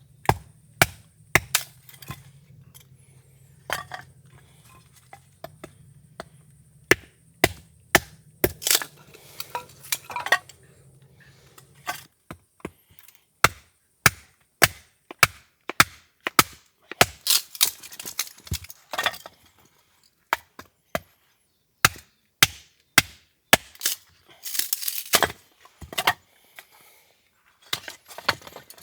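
Chopping: many sharp knocks of a blade striking wood, irregularly spaced, some in quick runs.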